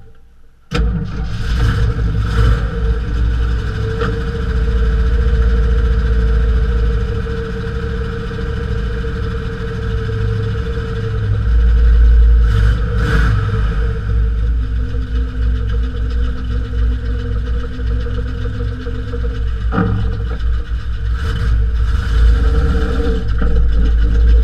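Jeep CJ5 engine running, heard from under the vehicle beside the rear suspension, with a heavy low rumble. It starts abruptly about a second in and gets louder a little before halfway, as the Jeep begins to roll.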